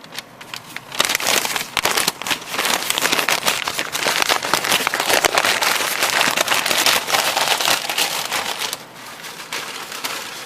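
Brown paper lunch bag being folded over and creased shut, the paper crinkling and crackling in quick handling bursts, easing off near the end.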